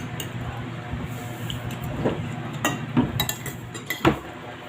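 Spoon and fork clinking against a plate and bowl while eating, several separate clinks, the loudest near the end.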